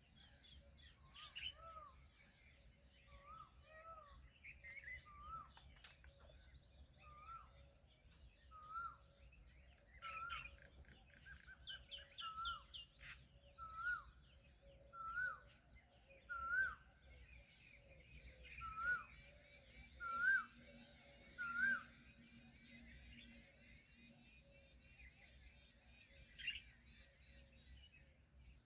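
Birds calling: one bird repeats a short note with an upward hook about every second and a half, growing louder toward the middle and then stopping, while other birds chirp and twitter at a higher pitch behind it.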